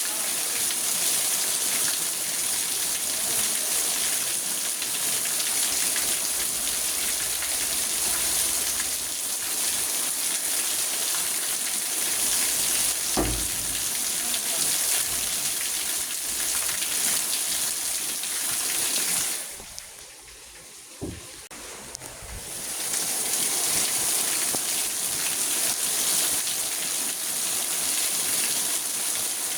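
Rain falling on a car, heard from inside as a steady dense hiss, with a low thump about thirteen seconds in. The rain briefly drops away about twenty seconds in, with a couple of small knocks, then returns.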